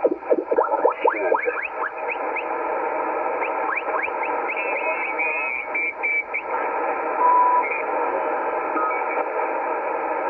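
ICOM IC-718 HF receiver on the 40-meter band giving steady static through a narrow speaker-like sound, with whistles that sweep in pitch during the first couple of seconds, as heard when tuning across signals. Short steady tones come and go in the middle, and a brief beep follows.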